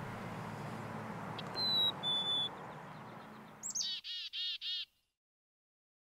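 Small songbirds calling: two clear whistled notes, the second a little lower, then a high falling note followed by three quick, rough repeated notes.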